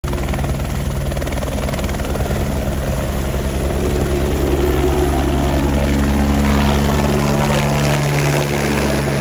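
Helicopter flying close, with its steady rotor chop and engine drone, a little louder in the middle.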